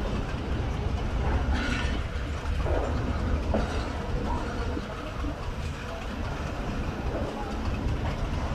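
Empty passenger coaches rolling past on the track: a steady low rumble from the wheels on the rails, with a few short clanks.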